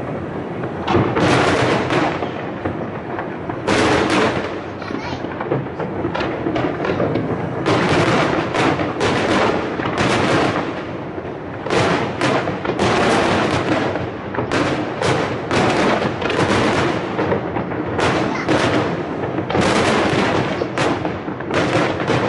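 Aerial fireworks shells bursting in rapid, irregular volleys of bangs, clustered every second or two, over a continuous rumble from the show.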